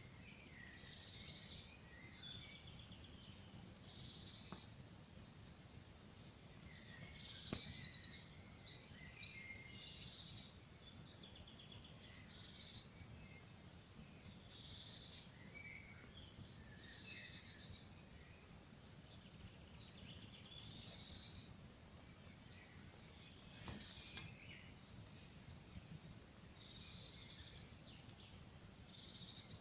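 Several small songbirds singing and calling almost without pause, busiest about seven to nine seconds in, over a faint low hum. A few soft crackles from the wood fire come through, near the start, about eight seconds in and again near twenty-four seconds.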